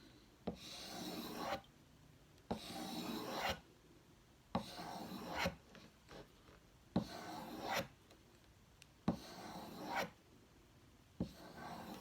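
Knife blade drawn across a leather strop loaded with sharpening compound under firm pressure: six slow, even strokes about two seconds apart, each starting with a light tap and followed by about a second of rasping rub.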